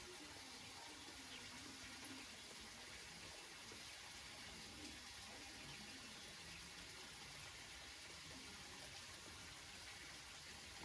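Faint, steady rain falling on banana leaves, an even hiss of drops with no letup.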